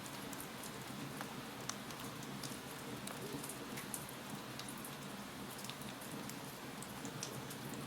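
Wood fire crackling: a steady hiss dotted with frequent small, sharp pops and snaps at irregular intervals.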